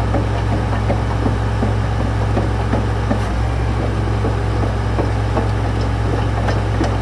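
Diesel engine of a 2000 Fiat-Hitachi tracked excavator running steadily at idle: a constant low hum with a fast, irregular clatter of small knocks over it.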